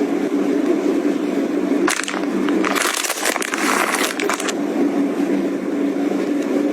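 Packaging crinkling and rustling as it is handled, a dense burst lasting about two and a half seconds in the middle, over a steady low hum.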